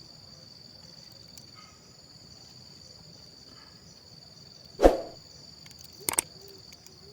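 Steady high-pitched chorus of insects in the forest. About five seconds in comes one loud knock, then a couple of lighter clicks near the end.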